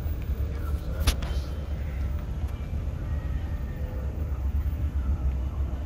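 Car engine running with a low, steady rumble, and one sharp click about a second in.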